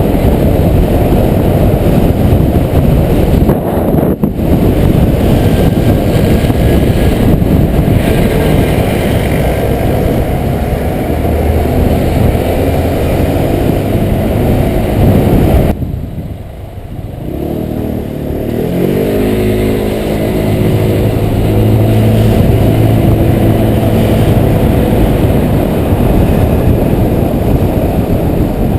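Honda PCX 125 scooter's single-cylinder four-stroke engine running under heavy wind rumble on the microphone while riding. About halfway the wind noise drops away suddenly as the scooter slows. The engine note then rises as it pulls away again.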